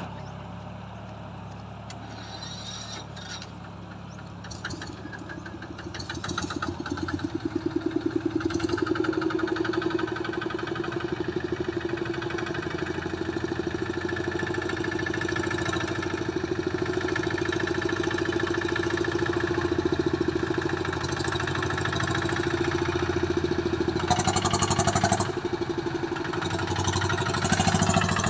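A vehicle engine running low and steady, then picking up about six seconds in and holding higher revs under load while hauling out of a slippery, rain-soaked field.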